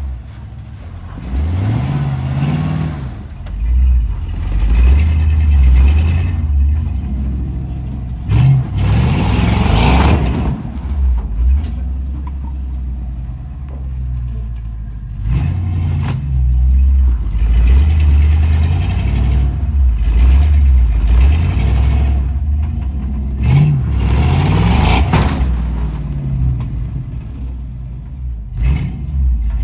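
Off-road vehicle's engine revved hard in repeated bursts, each rising in pitch over a deep rumble, about four times, as the rig works to climb a trail obstacle; a few short clattering knocks come in between.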